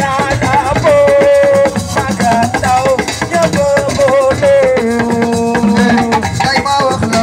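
Live assiko band music: a held, bending melody line over rattling shakers and drums in a fast, dense beat.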